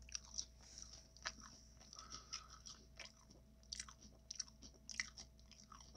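Close-miked chewing of a taco: faint, irregular small crunches and mouth clicks.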